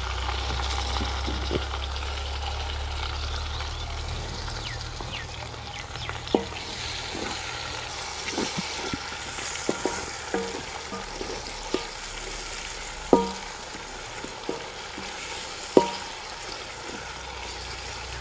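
Chopped tomatoes, green chillies and onion sizzling in hot oil in an aluminium wok, stirred with a wooden spatula that knocks and scrapes against the pan every second or two.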